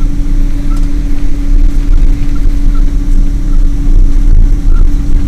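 Boeing 777 airliner noise: a loud, steady low rumble with a constant hum running through it.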